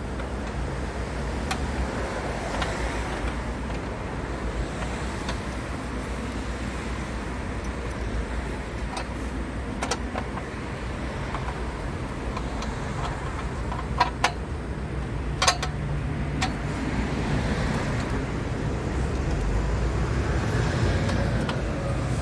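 A small engine running steadily, with a few sharp clicks a little past the middle.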